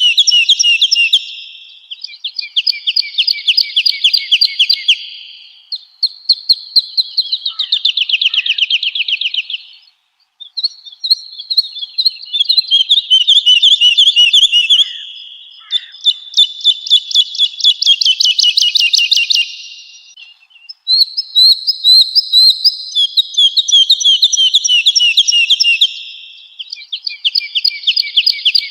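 Woodlark singing: phrase after phrase of fast, repeated fluting notes, each phrase a few seconds long with short pauses between, some sliding down in pitch.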